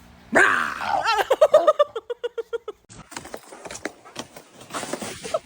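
A dog vocalizing: a sudden loud yelp followed by a quick run of short pitched yips, then a scatter of clicks and taps for the rest.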